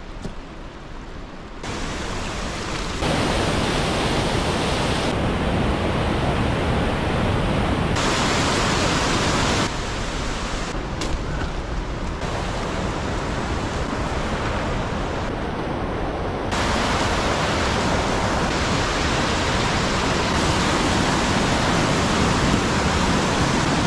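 Steady rushing water, a noisy hiss without any tone, that jumps abruptly louder or softer and brighter or duller several times.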